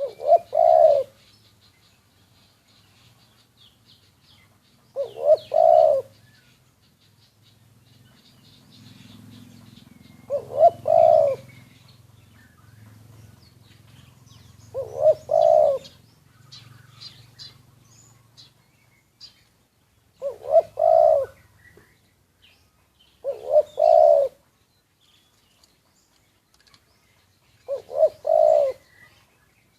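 Spotted dove cooing: a short phrase of two or three coos, repeated seven times about every four to five seconds. Faint chirps of other birds come between the phrases, and a low hum runs through the middle.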